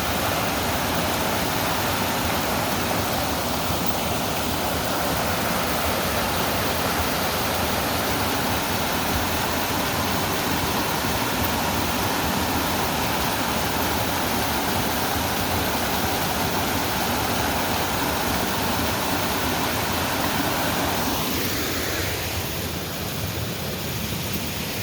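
Steady rush of water from a river and its small waterfall, easing a little about twenty seconds in.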